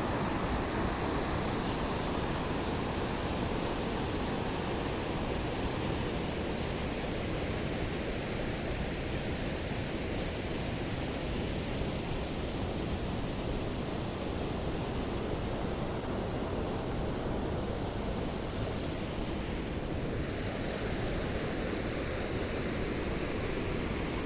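Waterfall rushing, a steady even noise of falling and splashing water.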